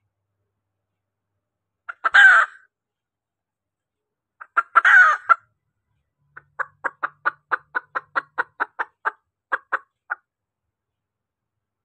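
Female junglefowl (hen) calling: two short calls about two and five seconds in, then a run of quick clucks at about four a second. This is the hen call used as a lure to draw in cock junglefowl.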